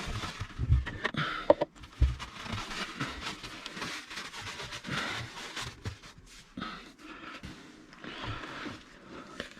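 Handling noises from work on the boat's hydraulic filter. A few low thumps come in the first two seconds, then scraping and rustling with small clicks.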